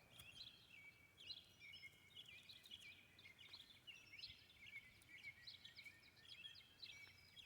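Faint birdsong: many short high chirps and trills from several small birds, overlapping throughout.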